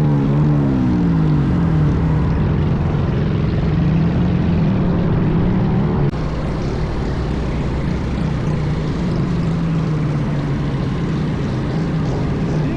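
Minibike engine running while riding, its pitch falling as the throttle eases, then climbing again. About six seconds in, the sound breaks off sharply into a slightly quieter, steadier run.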